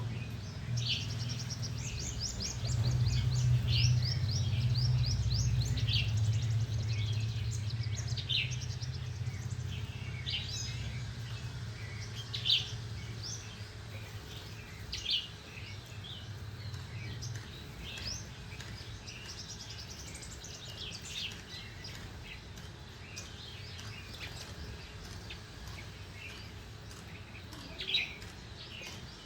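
Small birds chirping throughout with short, repeated high notes, a few much louder calls standing out, over a low rumble that fades out about two-thirds of the way through.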